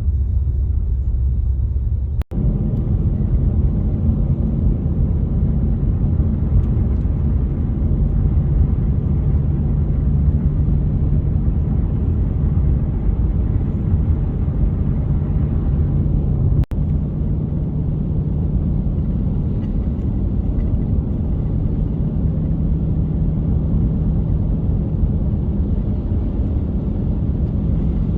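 Car being driven on an icy road: a steady low rumble of engine and tyres, briefly cutting out twice.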